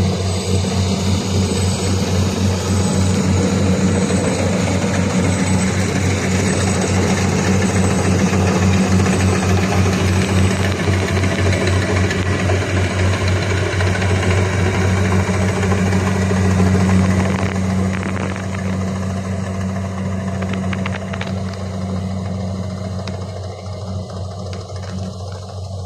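Kubota DC120X rice combine harvester running with a steady, loud engine hum, growing quieter over the last several seconds.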